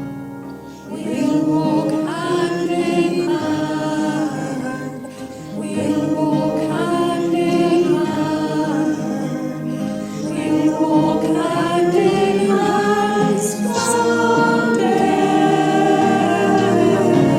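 A choir singing a hymn. The voices come in about a second in, after a quieter keyboard introduction.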